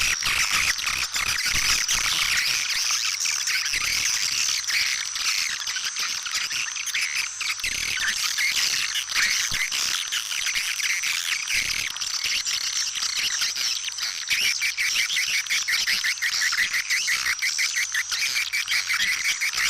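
Swiftlets twittering in a dense, continuous chorus of high chirps, over a steady high thin tone. From about two-thirds of the way through, a fast rattling trill of clicks joins in. This is a swiftlet lure-call recording, the kind played to call swiftlets in.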